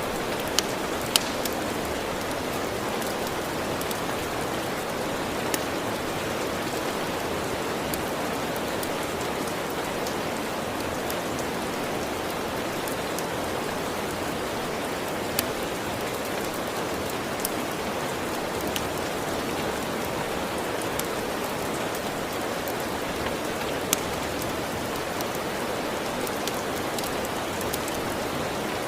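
Steady rain, with occasional sharp crackles and pops from a wood fire.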